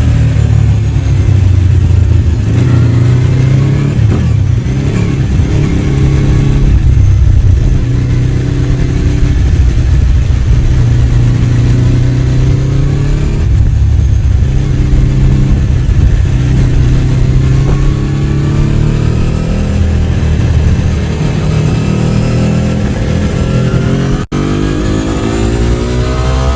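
Ducati 749's L-twin engine running under way, its pitch rising and falling with the throttle and gear changes. Near the end the sound breaks off for an instant, then the revs climb steadily.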